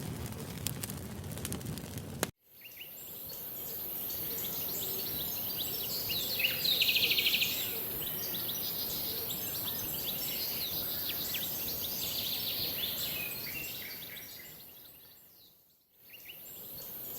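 Crackling campfire sound for about two seconds, then cut to an outdoor ambience of birds chirping over a steady high hiss, with a loud rapid trill about seven seconds in; the ambience fades out near the end and starts again.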